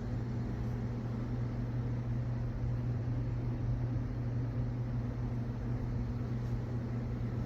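Ninja Pod & Grounds single-serve coffee maker running with a steady electric hum.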